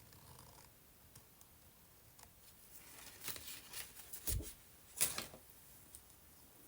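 Hands handling paper and small objects on a work table: light rustling and scattered clicks, with a dull knock about four seconds in and a sharp click about a second later.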